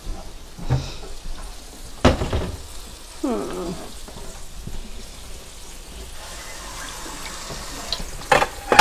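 Fried rice sizzling in a skillet on the stove, a steady frying hiss, with a sharp knock about two seconds in and a few clattering knocks near the end as dishes are handled in a cabinet.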